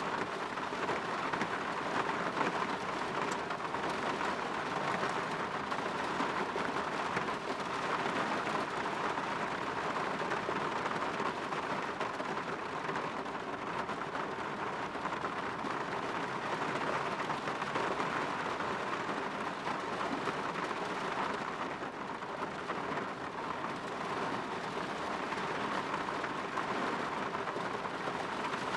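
Steady rain falling against a window, an even hiss with no pauses.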